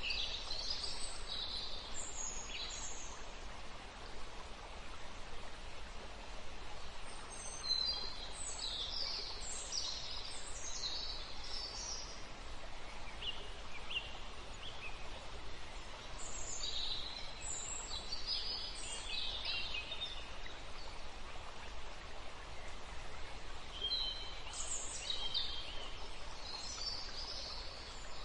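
Birds chirping and singing in several short bouts a few seconds apart, over a steady background hiss.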